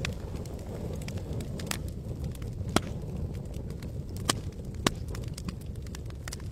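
Wood campfire crackling, with scattered sharp pops, the loudest about three, four and five seconds in, over a steady low rush.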